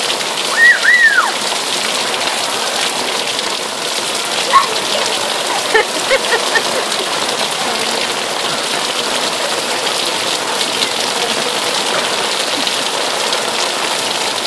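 Heavy rain falling steadily in a downpour, a dense even hiss. A brief high cry rises and falls twice about half a second in, and a few short high calls come around the middle.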